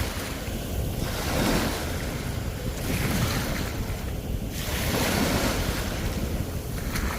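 Sea waves breaking and washing on the shore, the surf noise swelling and ebbing every couple of seconds. Wind buffets the microphone with a low rumble throughout.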